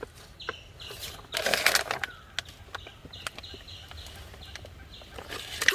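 Water splashing briefly in a fish tank as a net is worked to catch a fish, about a second and a half in, with a few small knocks around it.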